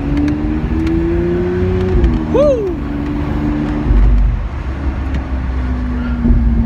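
Lamborghini Aventador SV's V12 engine under acceleration, heard from the passenger seat. The pitch climbs steadily for about two seconds, then falls as the revs drop and holds. About four seconds in it falls again, with a deep low rumble.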